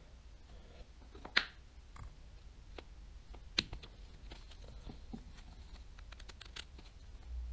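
Light clicks and taps of small reel parts and tools being handled while a baitcasting reel is taken apart, with two sharper clicks about a second and a half in and again a couple of seconds later, then a run of small ticks.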